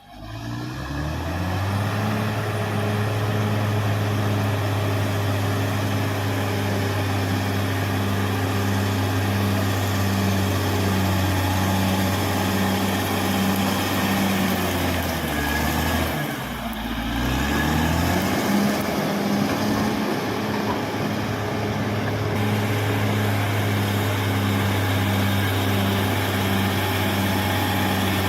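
Caterpillar D6R XL bulldozer's diesel engine running steadily, its note dipping briefly about two-thirds of the way through and then picking back up.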